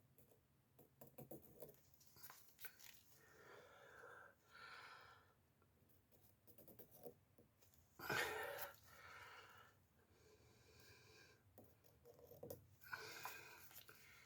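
Near silence: quiet room tone with faint, scattered rustles and clicks, and one louder short noise about eight seconds in.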